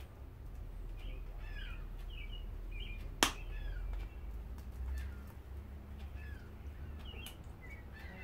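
Small birds chirping repeatedly, with short quick notes, over a steady low rumble. A single sharp click a little past three seconds in is the loudest sound.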